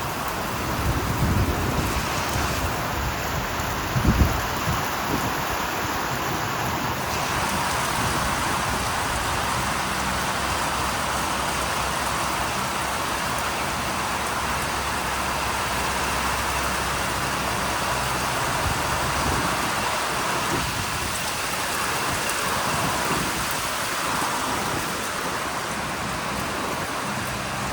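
Heavy rain pouring down steadily in a thunderstorm, with a brief low thump about four seconds in.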